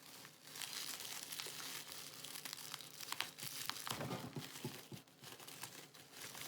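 Packaging being torn and forced open by hand, with continuous crinkling and tearing of the wrapping and many small crackles.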